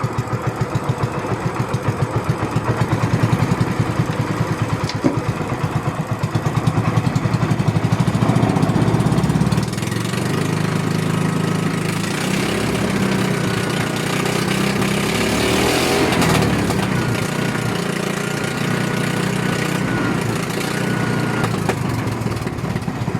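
Pumpboat's Honda 16 hp engine running with a steady, even firing beat, getting louder over the first several seconds. About ten seconds in the sound drops a little and changes, and the engine then runs evenly.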